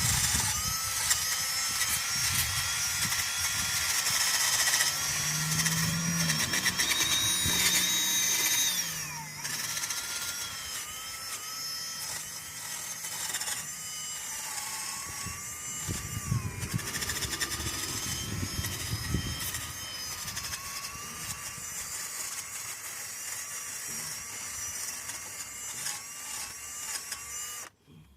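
Electric drill with a wire brush attachment scrubbing rust off brake parts. The motor whines steadily over a harsh scratching, and its pitch slides down about nine seconds in before it runs on.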